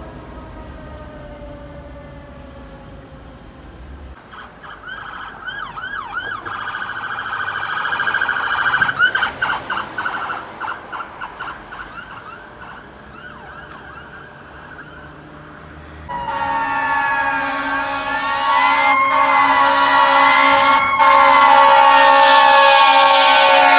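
Emergency vehicle sirens: a fast yelp siren grows louder to a peak near the middle and fades away. About 16 s in, a fire engine comes up much louder, its wail siren gliding up and down over a steady air-horn blast.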